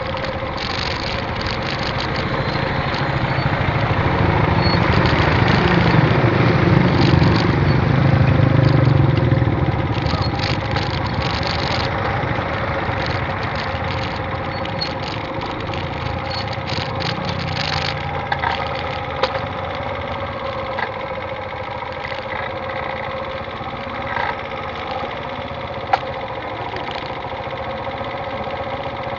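Motorcycle engine idling steadily in stalled traffic. A deeper engine rumble swells and fades early on, and there are a few sharp clicks in the second half.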